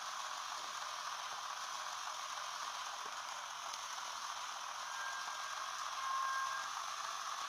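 A steady hiss that stays the same throughout, with a faint brief tone a little after the middle.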